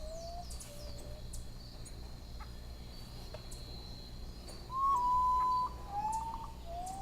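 A bird whistling a series of short, low, clear notes, each sliding slightly upward, with one long steady whistle about five seconds in, the loudest of them.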